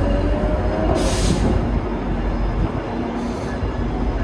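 GO Transit commuter train, led by an MP40PH-3C locomotive, pulling into the station: a heavy low rumble with a thin squeal rising slightly in pitch, and a short burst of hiss about a second in. The rumble eases a little near the end.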